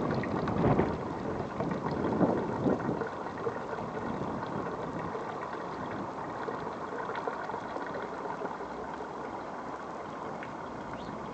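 Strong wind blowing hard over the microphone in gusts, loudest in the first few seconds, then settling to a steadier rush.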